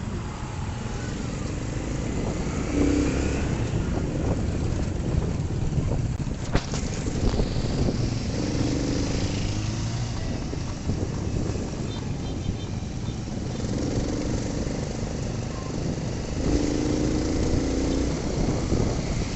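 Motorcycle riding along, its engine running under a steady low rumble, with a few short pitched stretches along the way.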